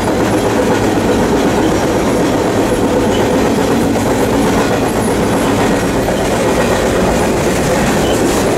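Freight train running, heard from on board a grain hopper car: loud, steady noise of the wheels on the rails and the moving car.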